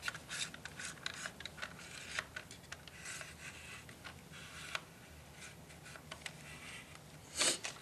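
Scattered small clicks and scratchy handling noises, as of an RC transmitter and car being picked up and switched on, over a faint low hum, with a short rustling burst near the end.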